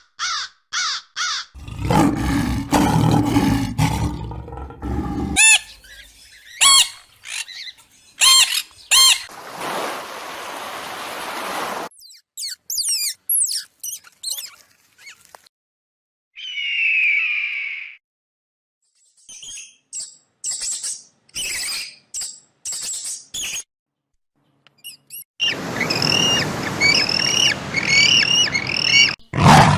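A string of different animal calls, one clip after another: a low, rough call for a few seconds early on, then many short bird chirps, one held whistle-like call in the middle, and repeated chirping over a rushing noise near the end.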